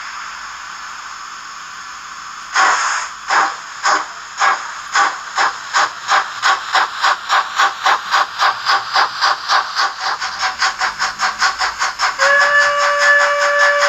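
Sound decoder of a Märklin H0 model of a DB class 56.2-8 steam locomotive: a steady steam hiss, then about two and a half seconds in the chuffing starts slowly and speeds up steadily as the engine pulls away. Near the end the steam whistle sounds, held steady.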